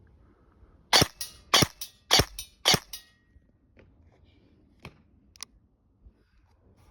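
ASG Scorpion Evo 3 A1 airsoft electric gun firing four sharp shots about half a second apart, followed by a few faint clicks.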